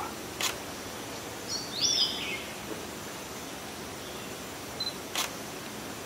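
A short, high bird chirp of a few quick stepped notes about two seconds in, over a steady background hiss. Two sharp camera-shutter clicks, one about half a second in and one near the end.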